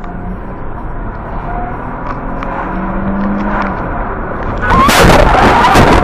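Car road noise building steadily, then about three-quarters of the way in a sudden loud collision: a burst of crunching impacts that carries on to the end.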